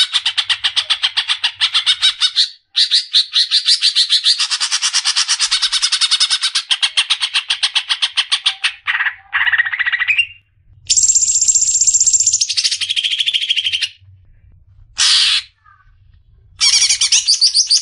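Cucak ijo (green leafbird) singing in loud, fast runs of rapidly repeated notes, several long bouts broken by short pauses, with shorter higher-pitched phrases in the second half.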